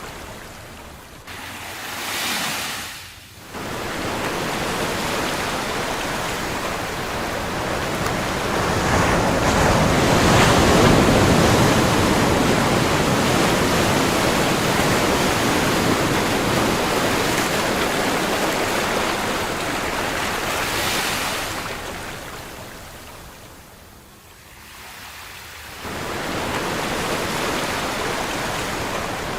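Ocean waves surging and washing on a shore. The surf swells loudest about a third of the way in, eases off near the end, then builds again.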